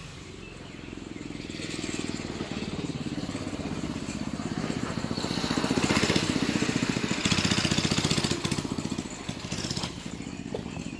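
Mini bike's small engine running, getting louder to its loudest about six to eight seconds in, then dropping back, with its pitch shifting as the throttle changes.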